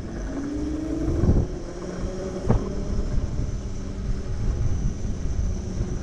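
Electric moped motor whining while riding, its pitch rising a little in the first second and then holding steady, over wind on the microphone and road rumble. A single sharp knock about two and a half seconds in.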